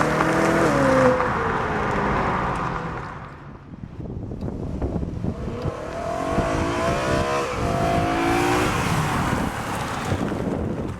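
BMW E92 M3's V8 through a stainless-steel cat-back performance exhaust, its note fading as the car pulls away, then coming back and passing by with the pitch rising and falling about six to nine seconds in.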